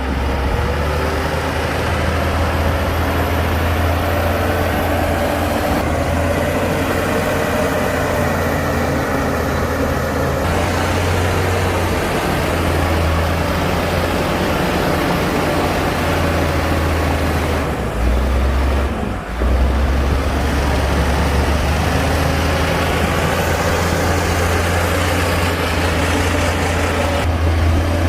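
Heavy diesel earthmoving machinery running steadily with a deep, continuous engine rumble; the note shifts and briefly dips around eighteen to nineteen seconds in.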